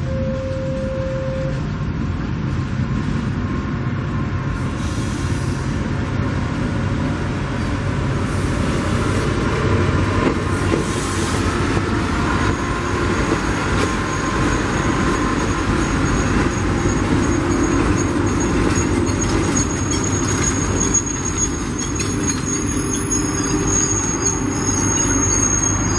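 A passenger train running past on the rails: a steady loud rumble of wheels and cars. A thin high wheel squeal comes in about two-thirds of the way through and holds.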